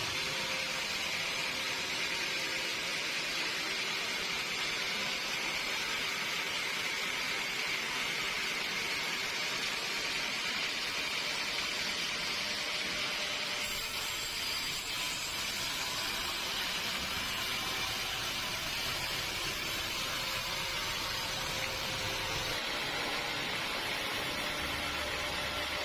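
Steady hiss of running machinery that holds one level throughout, with no cuts or knocks standing out.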